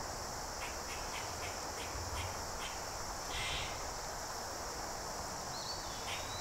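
Steady high-pitched chorus of crickets, with a few short, soft scrapes of a carving knife cutting into basswood.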